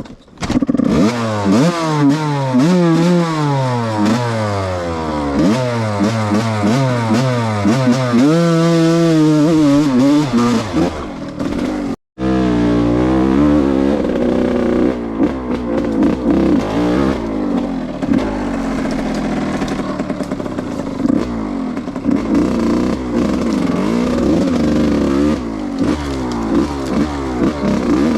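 Yamaha YZ125's single-cylinder two-stroke engine revving up and down over and over as it is ridden off-road, its pitch climbing and falling with the throttle. The sound drops out for an instant about twelve seconds in.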